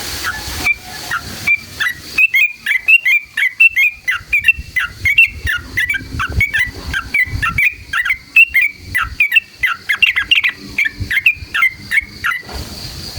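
Yellow-vented bulbul (trucukan) singing a long, rapid run of bubbly chattering notes. The song starts about two seconds in and stops just before the end.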